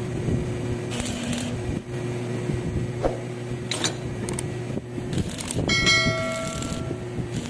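Metal workpieces knocking and scraping over a steady electric hum; near the end, a sharp clank sets a piece of steel ringing like a bell for about a second and a half.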